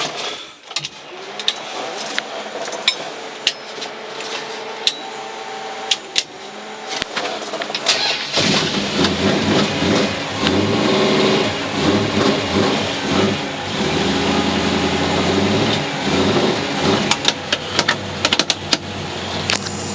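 Cold start of a 1970 Dodge Coronet 500's twin-turbocharged 383 big-block V8: several seconds of cranking with sharp clicks, then the engine catches about eight seconds in and idles.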